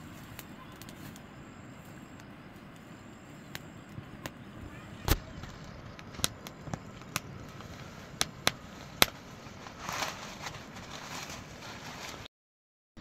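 A string of sharp, irregular knocks and clicks, about nine over several seconds, the loudest about five seconds in, over a steady background hum. The sound cuts out completely for a moment near the end.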